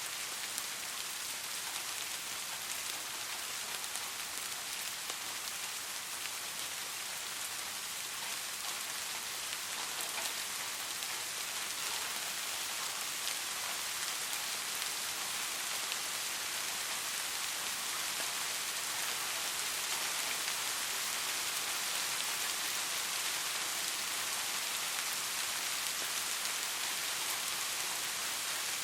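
Steady gentle rain: an even hiss of rainfall with fine scattered drop patter, no thunder.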